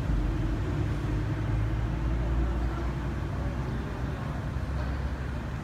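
A vehicle engine idling: a steady low rumble with a faint held tone above it.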